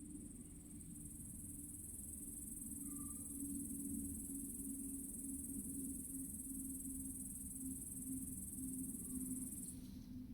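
A steady, high-pitched insect trill that cuts off suddenly near the end, over a low steady hum.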